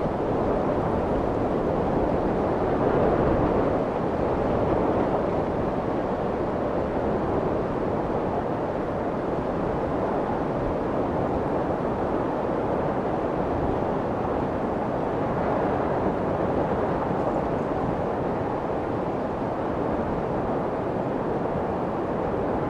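Steady white noise: an even, rushing hiss that is heaviest in the low-middle range and muffled at the top. It swells slightly a few seconds in.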